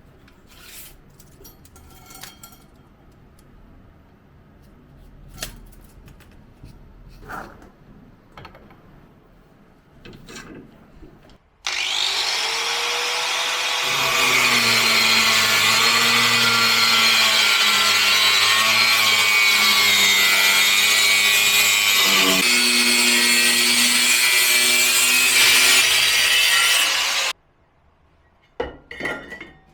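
An electric power tool spins up with a rising whine, then runs loudly as it cuts for about thirteen seconds before cutting off abruptly. Scattered light knocks and handling clicks come before it, and a few clinks follow.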